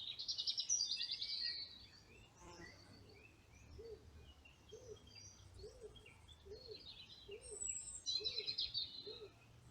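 Woodland birdsong: a songbird sings two loud, rapid trilled phrases, one at the start and one near the end, with scattered high chirps between. A lower call repeats about seven times, evenly spaced, through the second half.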